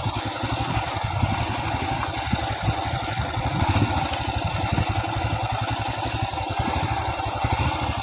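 Motorcycle engine running steadily at low revs, its firing pulse rapid and even.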